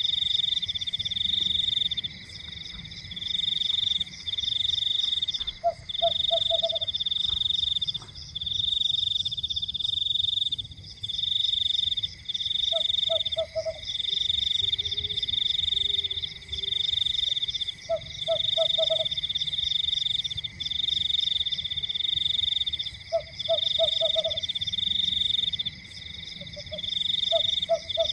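Night chorus of calling animals: a loud, high, rapidly pulsed trill repeating in bouts of a second or two over a steady high drone, with a lower frog-like croak of a few quick notes about every five seconds.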